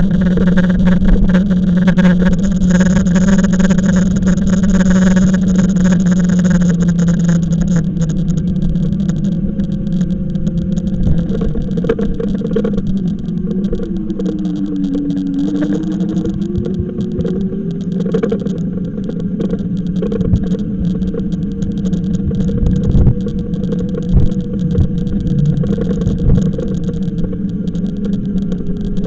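Electric bike motor humming steadily while riding, its pitch dipping and rising again about halfway through as the speed changes, over rumbling road and wind noise with occasional knocks.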